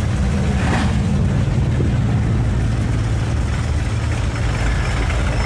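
Engines of classic cars running at low speed as they cruise slowly past at close range: a low, steady engine sound with a short hiss about a second in.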